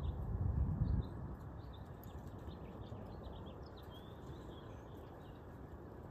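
Small birds chirping faintly, many short scattered high chirps, over a steady background hiss, with a low rumble that stops about a second in.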